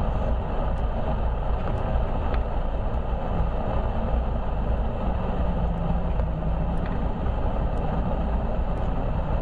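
Land Rover trial vehicle's engine running steadily, under a low, even rumble.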